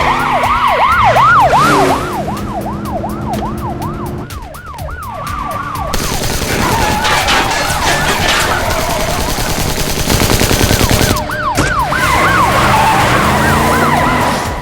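Police car sirens in a fast up-and-down yelp, about three sweeps a second, over car engines racing during a chase. For a few seconds in the middle the sirens drop back under a dense roar of engine and road noise, then the yelping returns near the end.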